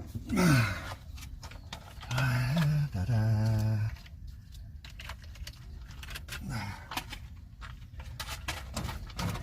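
A man's voice hums briefly, then tools are handled with scattered clicks and knocks while a drill is readied for boring a hole.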